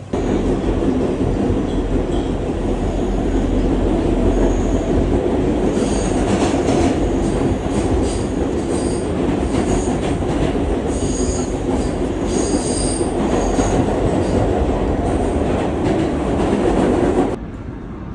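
Train running on the rails: a steady rumble with high wheel squeals coming and going through the middle. It cuts off suddenly near the end.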